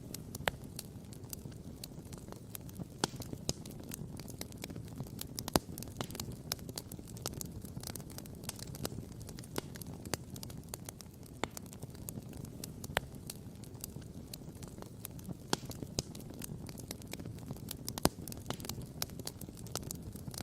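Wood campfire crackling and popping: irregular sharp pops and ticks, a few a second, over a steady low rumble, with louder pops about five seconds in and near the end.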